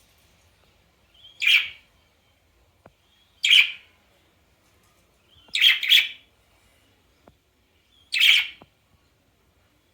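A bird giving loud, harsh single calls about every two seconds, with one quick double call in the middle.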